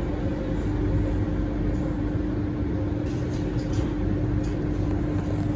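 Interior of an Alstom Metropolis C830C metro train car in motion: a steady low rumble with a constant hum, and faint high crackles of wheel-on-rail noise joining in about three seconds in.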